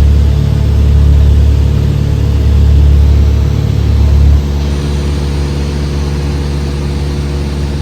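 Small plane's piston engine running steadily with a deep hum. About four and a half seconds in, the deepest part of the hum drops away suddenly and the sound gets quieter.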